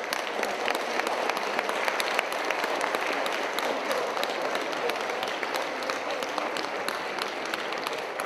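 Audience applauding: many hands clapping at once in a dense, steady wash that swells during the first second.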